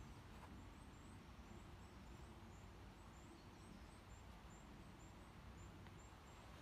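Near silence in woodland, with a small bird's thin, very high notes repeating about three times a second.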